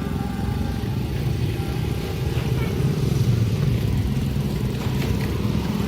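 Train passing close by: a loud, steady low rumble with a fast, rough pulse.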